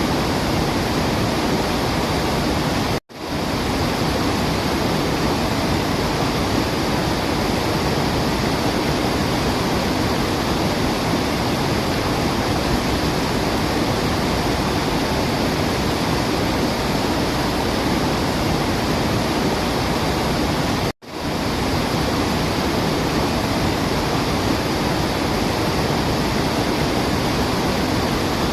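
Waterfall rushing, a steady dense roar of falling water with no birdsong standing out. The sound cuts out completely for a split second twice, about three seconds in and again about twenty-one seconds in.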